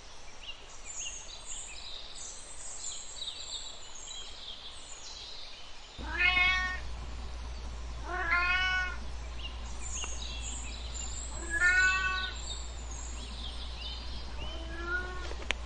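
Domestic cat meowing for food: four long, drawn-out meows that rise and fall, a few seconds apart, starting about six seconds in. Faint high chirping runs before the first meow.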